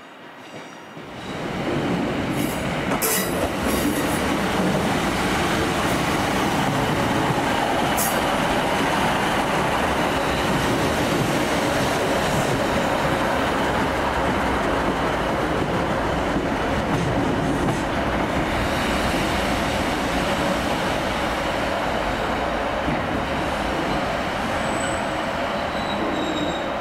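A train running through the station, a loud steady rumble of wheels on rails that builds up over the first second and a half and then holds. A faint high wheel squeal comes in near the end.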